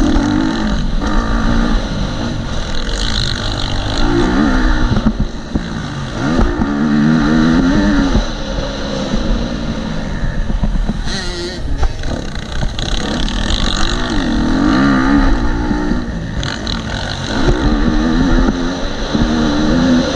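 KTM SX-F 250 four-stroke single-cylinder motocross bike being ridden hard, its engine revving up and dropping back every couple of seconds through the corners and straights. Wind buffets the helmet-mounted microphone.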